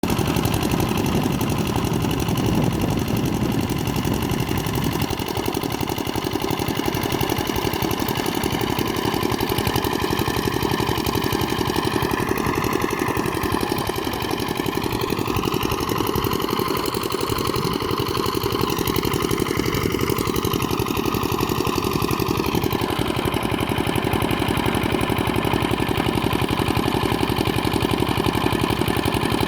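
Old 5 hp engine driving a water pump, running steadily with a rapid, even chug of firing pulses; its pitch wavers a little for several seconds in the middle.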